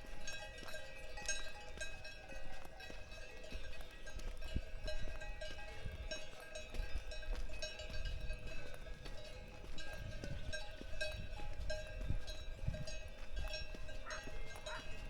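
Cowbells on grazing cows clanking and ringing without a break. A hiker's footsteps crunch on the trail underneath.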